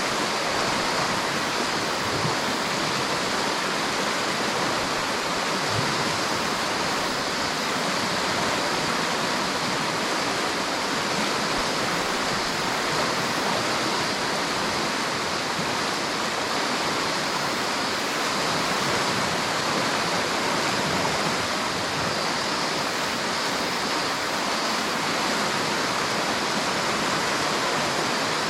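A river's water rushing in a steady, unbroken hiss, with no separate splashes or changes.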